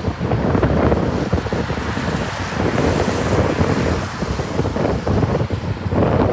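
Strong gusty wind buffeting the microphone: a loud, fluttering rumble with hiss, rising and falling with the gusts.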